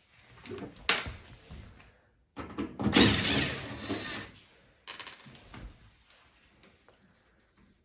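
Knocks, rattles and a long rasping scrape from parts of a front-loading washing machine being worked on by hand, with a sharp knock about a second in and another near the middle.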